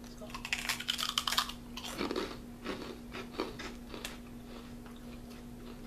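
Crunchy fried rice crackers being bitten and chewed: a dense burst of crisp crunching for the first second and a half, then sparser, softer crunches that die away about four seconds in.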